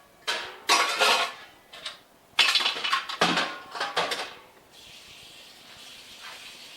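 Milking equipment (bucket, filter and jars) clattering as it is handled and set down in a sink, a quick run of knocks and clinks, then a faint steady hiss for the last two seconds.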